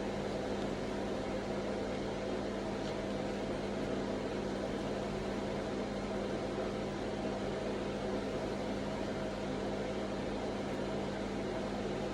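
A steady mechanical hum with a strong low tone, unchanging throughout.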